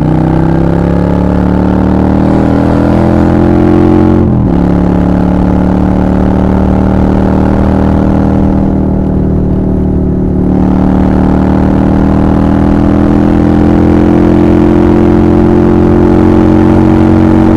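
Honda Shadow 750's V-twin engine running through a Black Widow exhaust as the bike accelerates. Revs climb for about four seconds, drop sharply at a gear change, then rise slowly again, easing off briefly in the middle.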